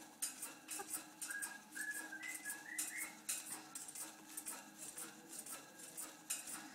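African grey parrot clicking and rattling at its cage in a string of short, irregular clicks. From about a second in, it gives a short whistle of several notes that step upward in pitch.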